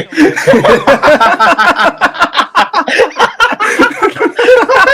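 Two men laughing hard together in loud, rapid, unbroken bursts.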